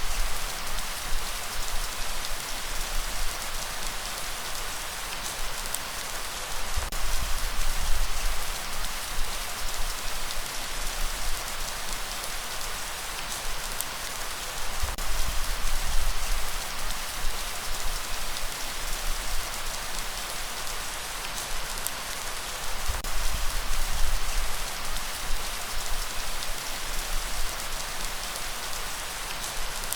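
Steady light rain falling, an even hiss of drops, with a low rumble that swells and fades every several seconds.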